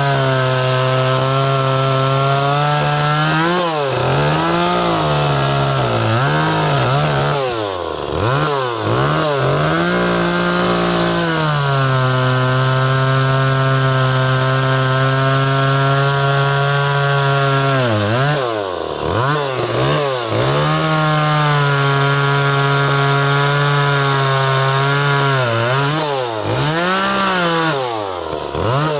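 Small top-handle chainsaw running near full throttle and cutting wood, its engine note held high and steady through the cuts. Between cuts the revs drop and climb back several times, around four seconds in, from about seven to eleven seconds, near nineteen seconds and near the end.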